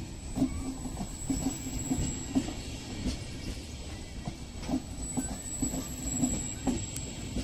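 Vivalto double-deck regional train coaches rolling past on arrival, their wheels knocking over rail joints in an uneven clatter over a steady rumble. A thin, steady high-pitched whine runs underneath.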